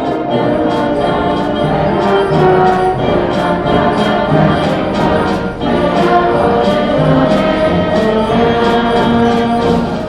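High school band playing a Christmas carol while the audience sings along, with a steady beat.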